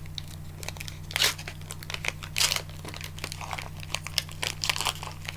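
A chocolate bar wrapper crinkling and tearing as it is opened: a run of irregular crackles with a few louder rips.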